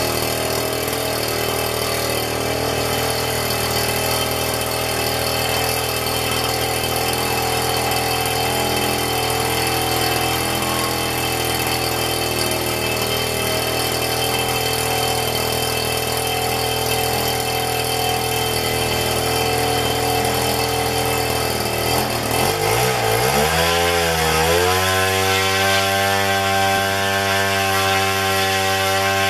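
Zenoah GT80 twin-cylinder two-stroke gas engine running at high throttle, turning a 24x10 propeller and exhausting through a big can muffler with the tri-tip pipes removed. About three-quarters of the way through its speed wavers, dipping and then rising, and it settles at a steady higher pitch.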